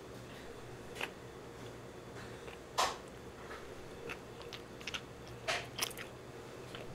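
Quiet close-miked chewing of food, with a few soft smacks and crunchy bites, the loudest about three seconds in, over a steady low hum: an attempt at ASMR eating sounds that stays faint.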